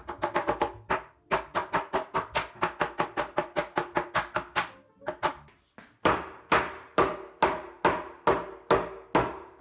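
A fast run of sharp, ringing knocks, about six a second, breaks off after about four and a half seconds. After a short pause come slower, heavier knocks about two a second, each ringing at the same few pitches, like tool strikes in woodworking.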